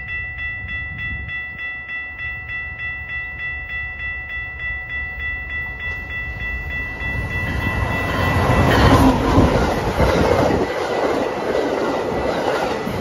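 A train passing close by. A bell dings evenly about two or three times a second, then from about seven seconds in the train's rumble and wheel clatter swell and grow loud.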